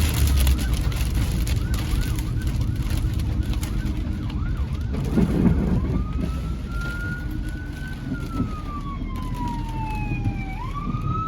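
Emergency vehicle siren, first yelping in fast short rising sweeps, then switching about halfway through to a slow wail that rises, falls and rises again, over a steady low rumble.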